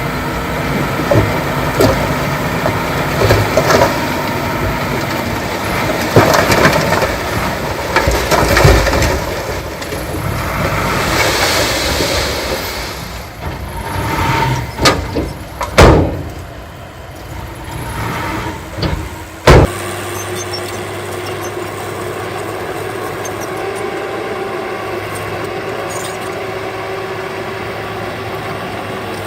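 Heavy diesel earthmoving machinery working, with clanks and knocks and two sharp loud knocks about two-thirds of the way through. After the knocks the sound settles into a steady engine hum.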